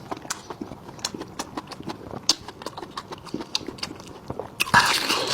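Close-miked chewing of cooked sheep tripe: a run of short wet mouth clicks and smacks, several a second, with a louder, longer burst of eating noise near the end.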